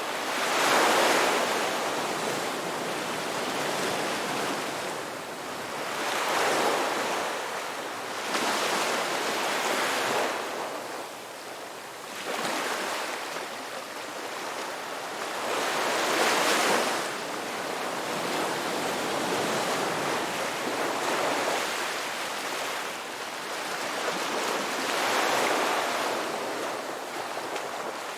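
Ocean waves breaking on a beach: a steady rush of surf that swells and fades about eight times, each wave surging in and washing back.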